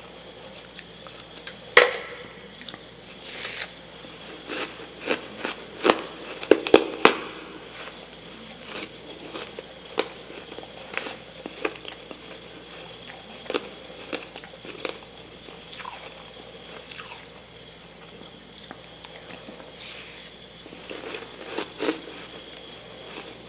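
Close-up crunching and chewing of soft freezer frost mixed with humidifier frost: irregular crisp bites, loudest about two seconds in, a quick cluster a few seconds later and more near the end, over a faint steady hum.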